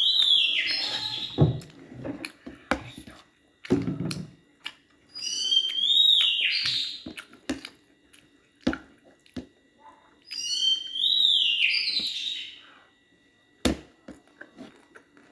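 A bird calling the same short phrase three times, about five seconds apart, each a whistle that rises and then falls away, with scattered sharp clicks and a dull knock between the calls.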